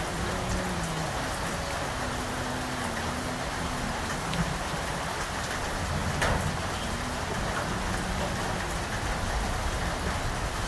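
Steady rain falling on surfaces, with a few louder individual drops striking close by, the clearest about six seconds in.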